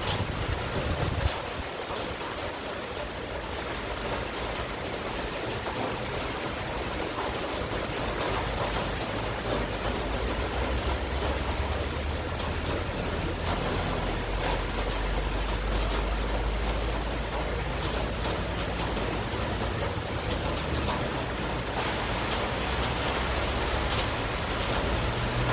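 Steady monsoon rain falling, an even hiss of rain. A low rumble swells under it through the middle stretch and fades again.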